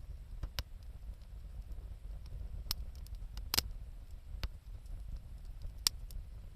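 Wood fire crackling: a handful of sharp, irregular pops, the strongest a little past halfway, over a steady low rumble.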